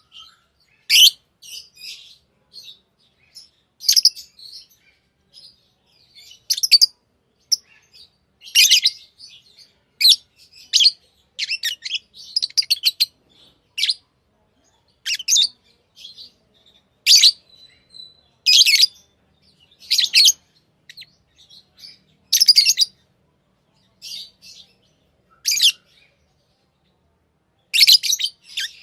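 Pet lovebirds chirping: short, sharp, high-pitched chirps coming singly or in small clusters every second or two, with quiet gaps between, and a quick run of chirps at the very end.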